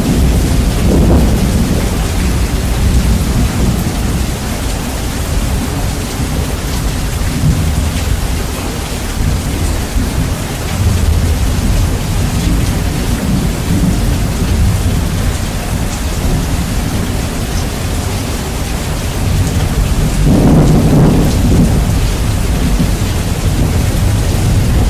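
Heavy rain hissing steadily under deep rolling thunder, bass-boosted so the low rumble dominates; a thunder rumble swells up near the end.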